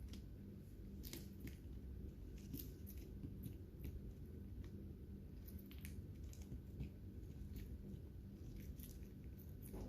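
Lovebirds cracking and husking seeds with their beaks: faint, sharp, irregular crunching clicks, one or two a second, over a steady low hum.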